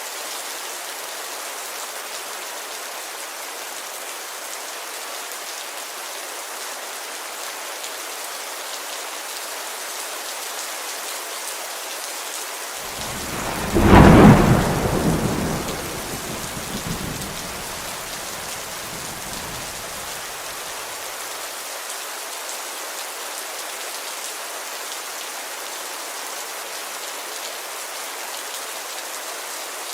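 Steady rain pattering on a window, with a single thunderclap a little before halfway that peaks sharply and then rumbles away over several seconds.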